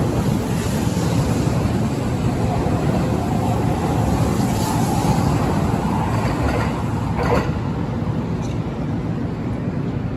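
Steady rumbling vehicle noise, with a single sharp knock about seven seconds in.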